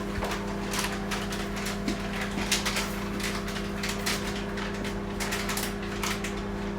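Microwave oven running with a steady hum, with scattered short clicks and rustles of handling over it.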